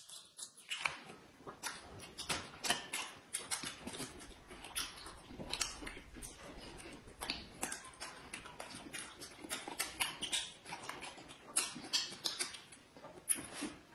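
Close-up eating sounds from two people: dense, irregular wet chewing and lip-smacking clicks as they bite into and chew sausages.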